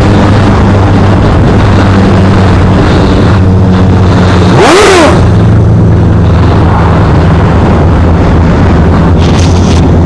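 Honda CBR600F inline-four engine running under way at steady revs. About halfway through, a brief burst where the pitch rises and falls back.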